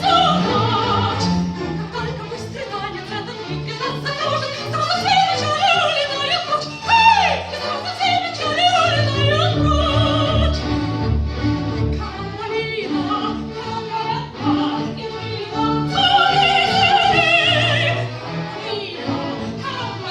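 Operatic-style singing with vibrato over instrumental accompaniment.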